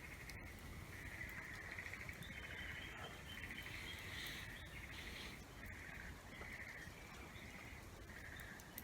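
A small animal calling in a series of short, rapidly pulsed trills, about a dozen bursts in a row at one high pitch, over a faint steady background noise.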